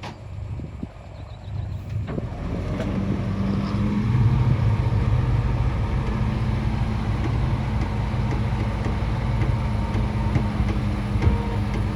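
Heavy diesel engine of earthmoving machinery running. It grows louder from about two seconds in, then holds a steady low drone.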